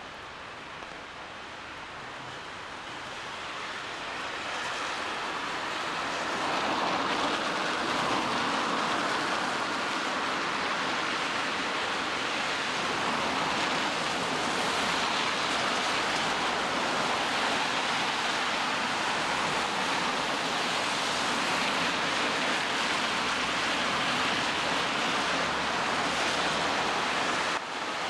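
Steady hiss of rain on a wet city street, mixed with the wash of traffic. It grows louder over the first few seconds and then holds steady.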